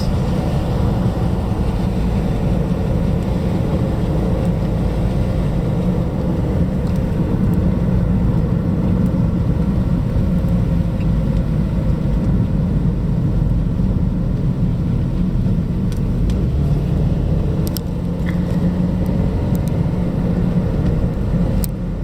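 Steady low rumble of a car heard from inside its cabin: engine and road noise, with a few faint clicks near the end.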